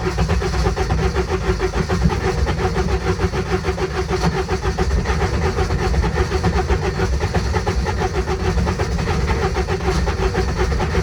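Intimidator diesel UTV engine cranking on its electric starter in a rapid, even chug, turning over without catching. It is a hard start that the owner puts down to glow plugs that seem not to be working.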